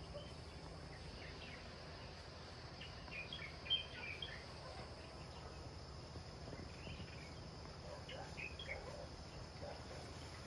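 Faint outdoor ambience with scattered short, high chirps and a low steady hum, and one brief click a little under four seconds in.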